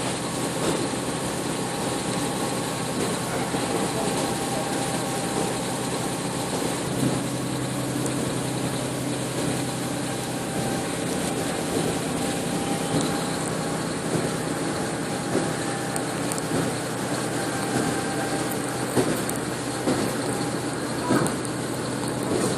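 Steady running noise inside a moving passenger vehicle: a constant hum with a few faint steady tones and the occasional small knock.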